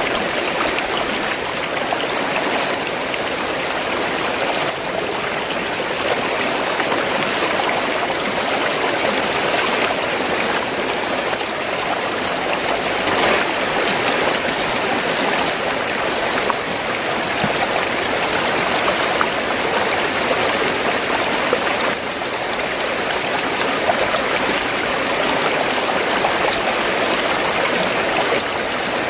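Fast-flowing stream of water gurgling and rushing steadily.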